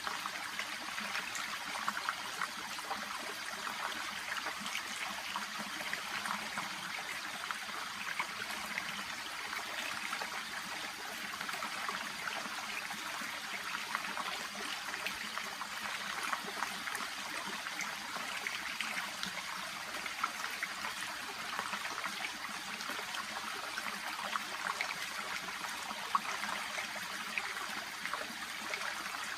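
Shallow brook babbling and trickling steadily, a continuous fine splashing with no pauses.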